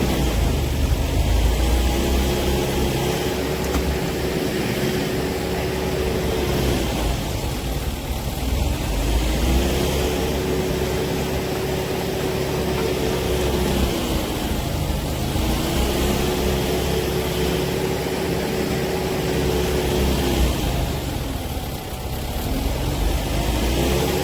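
Kubota M7060 tractor's four-cylinder diesel engine running under load, with a low rumble throughout and the pitch rising, holding for several seconds and dropping back again, four times in a steady work cycle.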